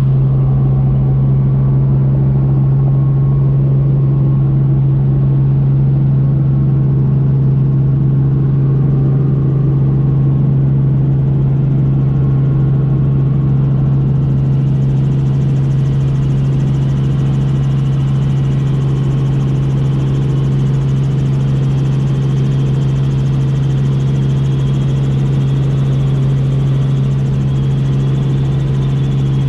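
Helicopter running steadily, heard from inside the cabin: a constant low hum with its overtones, with a higher hiss joining it about halfway through.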